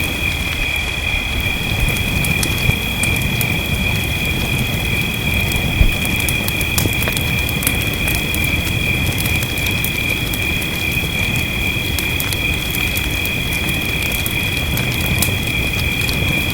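Fireplace fire crackling, with scattered sharp crackles and one louder pop about six seconds in, over a low steady rumble of rain. A steady high-pitched chorus of two shrill tones, like frogs or insects, runs throughout.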